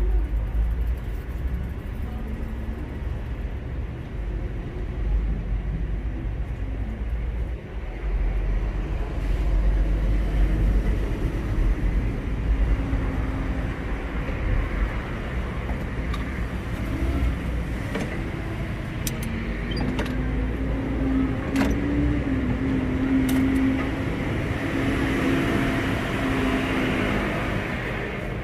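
City street traffic: a steady low rumble of passing vehicles, with an engine-like hum in the second half and a few sharp clicks.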